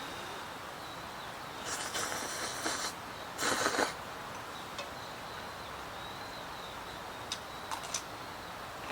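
Steady outdoor background hiss with a thin, steady high tone; two short bursts of rustling about two and three and a half seconds in, and a few light clicks near the end.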